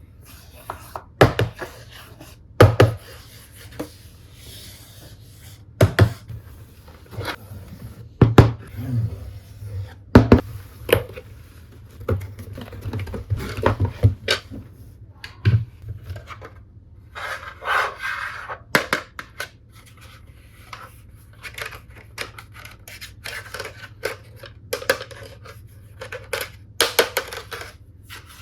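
Hands handling and opening toy packaging: irregular clicks and knocks, with stretches of scraping and rustling in between.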